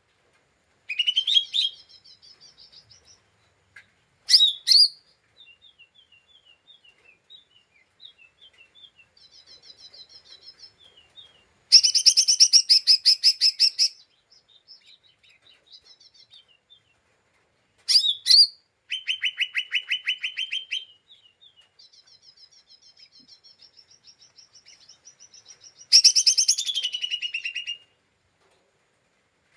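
Cucak ijo mini, a small leafbird, singing in its chattering 'ngeriwik' style: several loud bursts of very rapid trilled notes, the longest lasting about two seconds, with strings of softer, quick, high notes between them.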